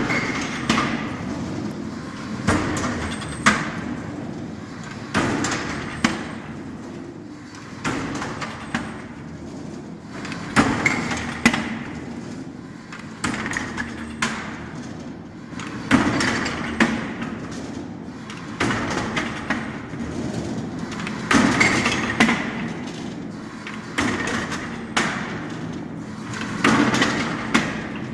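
Automatic brick-making machine running through its cycle: a pair of metal clanks about every two and a half to three seconds over steady machine noise.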